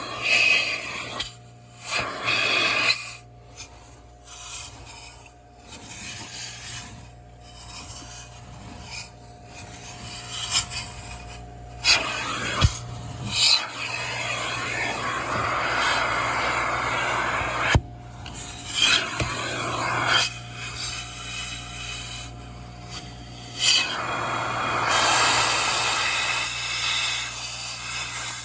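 Car wash vacuum running, its hose nozzle sucking and rubbing over the car's interior. The rushing hiss swells and drops as the nozzle moves, over a steady motor hum, with a few sharp knocks.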